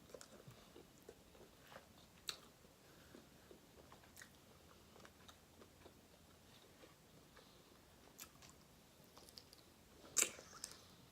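Faint, close chewing with small scattered clicks and crunches as a person eats seafood, with one sharper click about two seconds in and a louder mouth sound near the end.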